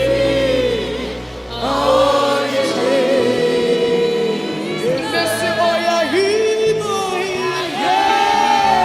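Gospel choir singing a sustained, drawn-out melody with a band behind it, the bass dropping out for a few seconds in the middle.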